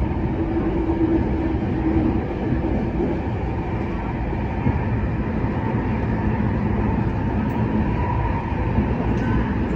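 Kinki Sharyo–Kawasaki-built MTR Tuen Ma line electric train running at speed, heard from inside the carriage: a steady low rumble of running noise.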